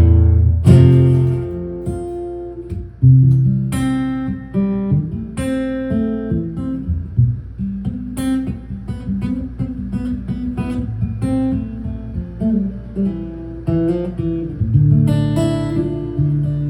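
Acoustic guitar playing an instrumental break of picked single notes over bass notes, with strummed chords near the start and again near the end.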